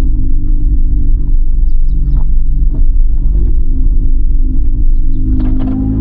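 Car engine running at low revs, a loud, steady low rumble, its note shifting slightly near the end.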